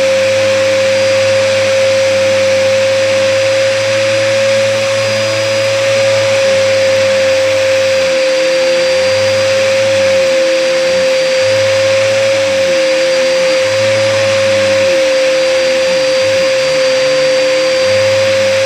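Hoover upright vacuum cleaner running with a strong steady high whine; about halfway in, a lower wavering hum starts coming and going every second or two. The owner thinks the vacuum is clogged.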